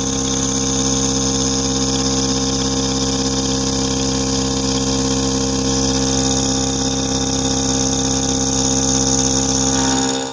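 CNC machine spindle running steadily through a roughing cut, a high whine over a low hum, which cuts off abruptly at the end.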